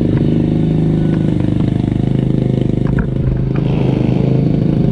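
Brand-new SSR 125 pit bike's single-cylinder four-stroke engine idling steadily while it warms up on its first break-in heat cycle, with a few light clicks about three seconds in.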